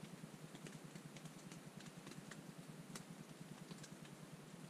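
Rain falling on a tent: a faint steady hiss with irregular sharp ticks of drops striking the fabric.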